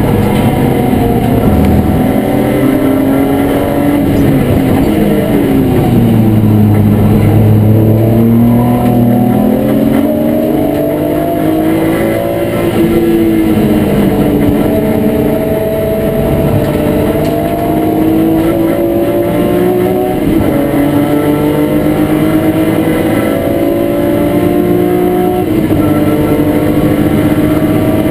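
BMW E36 M3 race car's straight-six engine at racing speed, heard from inside the cabin. The revs fall steeply about four seconds in, then climb in long pulls, with brief drops in pitch about twelve, twenty and twenty-five seconds in before climbing again.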